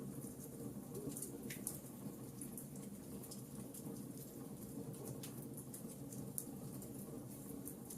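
Wood fire burning, with a steady run of small crackles and a few sharper pops over a low, even rumble.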